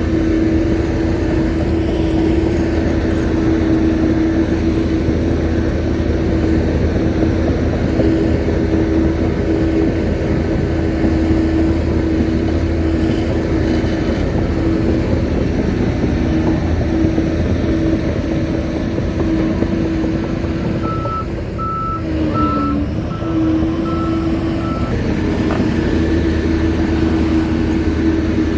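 Shantui bulldozer's diesel engine running steadily at working speed. A little past two-thirds of the way through, the engine note dips briefly and its reversing alarm beeps about twice a second for a few seconds as the dozer backs up.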